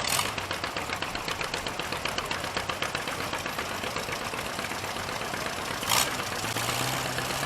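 Antique gas tractor engine running with an even, quick beat of exhaust pulses. A short burst of noise comes about six seconds in.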